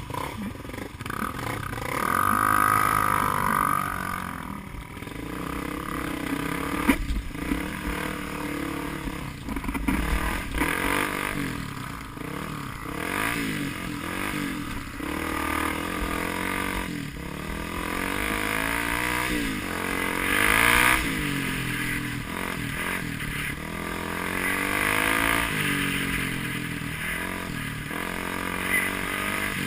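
Off-road motorcycle engine revving up and down again and again as the bike is ridden through the enduro course, with a few clattering knocks.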